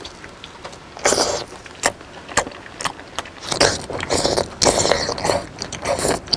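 Close-miked wet chewing and mouth sounds of eating raw beef slices dipped in chili sauce, with irregular smacks and sucking noises coming in bursts.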